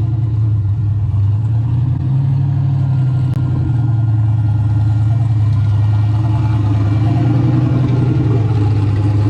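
Turbocharged 5.3-litre LS V8 in a square-body Chevy C10 pickup, idling steadily with an even pulsing beat.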